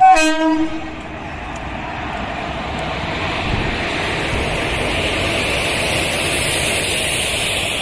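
A short, loud horn blast from an Indian Railways electric locomotive right at the start. After it comes the steady rumble of the passenger coaches rolling slowly past on the rails, growing gradually louder as the train pulls into the platform.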